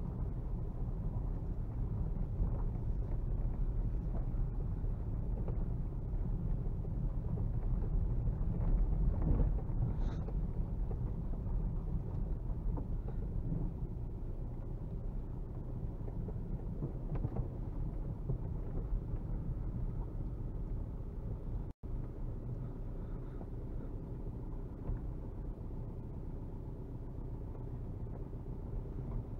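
1999 VW Golf Mk4's 1.9 TDI four-cylinder turbodiesel heard from inside the cabin while driving, a steady low rumble. The sound cuts out for an instant about two-thirds of the way through.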